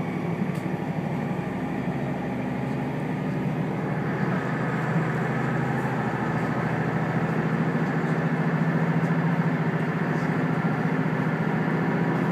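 Interior of a diesel railcar under way: a steady engine drone with the rumble of wheels on rail, growing somewhat louder about four seconds in.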